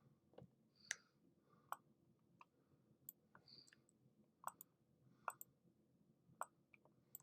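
Faint, irregular clicking of a computer mouse, about a dozen clicks spaced roughly half a second to a second apart.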